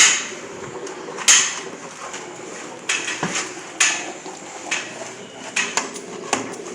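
Self-serve car wash foam brush scrubbing a car, a steady hiss broken by sharp plastic clacks and knocks about once a second at uneven spacing.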